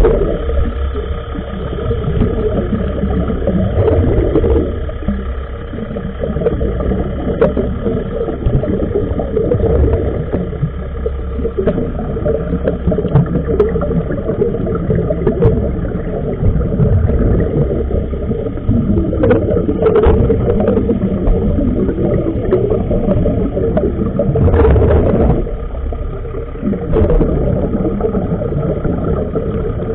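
Steady, muffled machinery hum carried through the water, as heard by an underwater camera. A few faint clicks run through it, and a short rush of noise comes about 25 seconds in.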